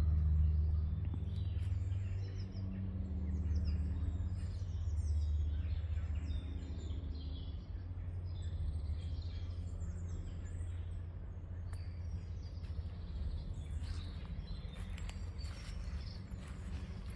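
Small birds chirping and singing in short high phrases over a steady low rumble. A few light clicks come near the end.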